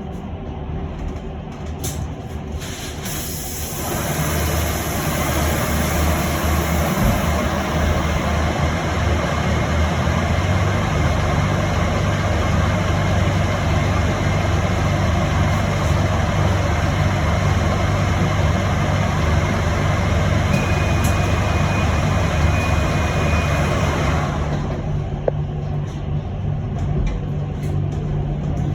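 Electric bus standing at a stop with its doors open: a broad steady rush of street noise comes in about four seconds in and cuts off sharply about four seconds before the end, as the doors shut. A high steady beep sounds for a few seconds just before the cut-off, and a low steady hum from the bus runs underneath.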